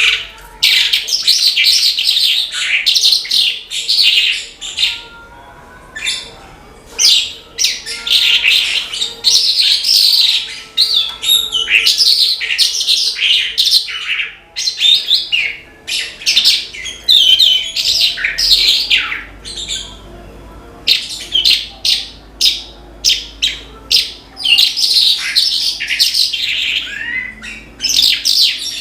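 Javan bush lark (branjangan) singing in full voice: long runs of rapid, high, chattering notes, broken by short pauses about six seconds in and around twenty seconds in.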